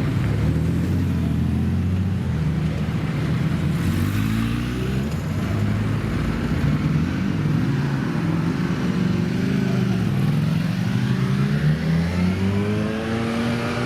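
Car engine running at low revs with its pitch wavering, then rising steadily as the car accelerates over the last few seconds.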